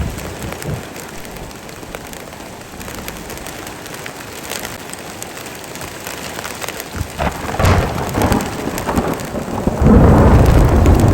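Heavy rain falling steadily, with a rolling thunder rumble that builds about seven seconds in and is loudest near the end.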